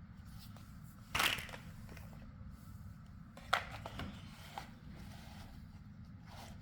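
Plastic building blocks being handled and pressed together: a short rustle about a second in, then a sharp click and a smaller click, over a low steady hum.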